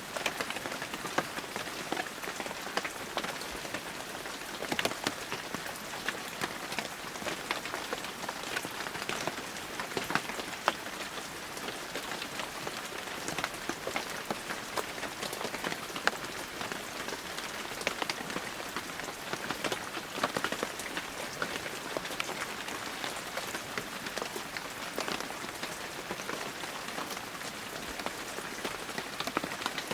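Heavy rain falling steadily, a dense hiss of countless drops striking surfaces, with many close, sharper individual drop impacts scattered through it.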